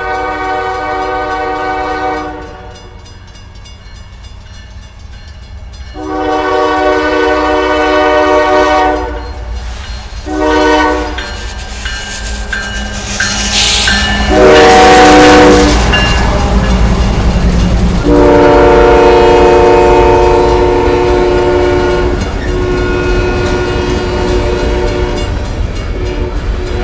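A CSX freight train's locomotive air horn sounds a chord in repeated blasts: two long, one short, then a long one held, with brief breaks, through the later part. This is the long-long-short-long pattern for a grade crossing. Under the horn the diesel locomotives and rolling cars rumble, growing much louder about halfway through as the train draws close and passes slowly.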